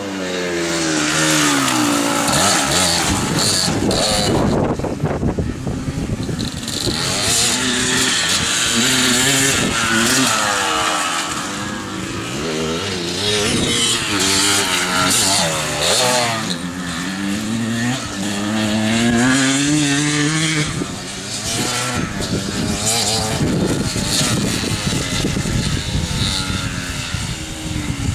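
Two-stroke dirt bike engines running hard, the pitch repeatedly climbing under throttle and dropping back as the bikes accelerate, shift and back off.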